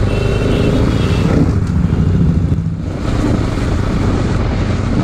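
Bajaj Pulsar NS200's single-cylinder engine running under way, with wind and road noise over it. The engine note eases off briefly a little before halfway through, then picks up again.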